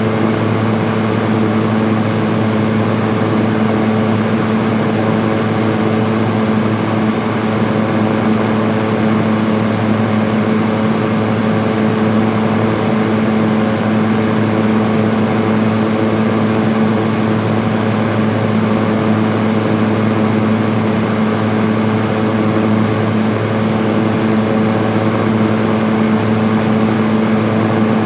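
Electric fan running on high speed: a steady, even rush of air with a constant motor hum underneath.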